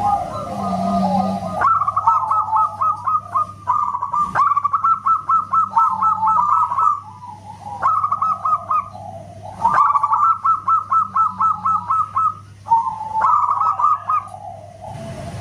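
Zebra dove (perkutut) singing: phrases of rapid, staccato cooing notes, each run lasting a second or two, with short pauses between them.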